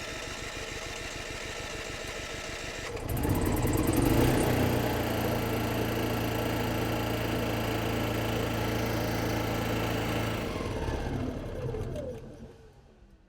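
RV generator's small engine cranking on the starter for about three seconds, then catching and running steadily with no load, on its first start after a fresh oil change and new spark plug. Near the end it winds down and stops.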